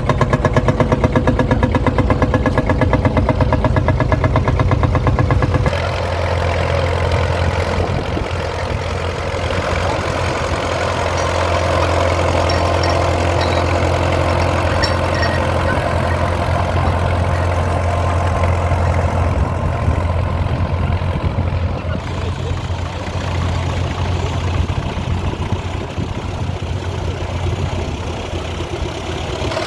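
Engine running steadily at idle; about six seconds in the sound changes abruptly to a different, steady engine note.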